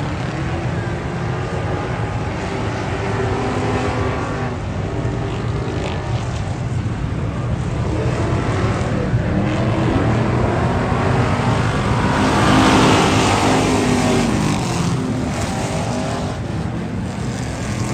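Race car engines running at speed on the track, with one car going by close and loudest about twelve to thirteen seconds in, its pitch falling as it passes.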